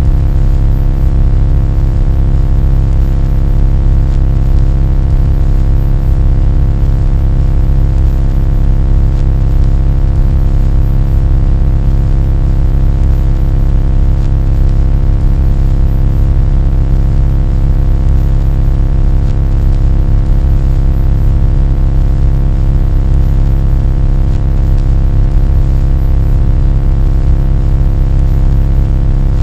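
A loud, unchanging low rumbling drone, with a stack of steady hum tones above the rumble.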